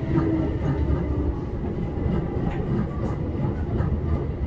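Keihan 5000 series commuter train running, heard inside the car: a steady low rumble with scattered light clicks from the wheels as the car rolls alongside a station platform.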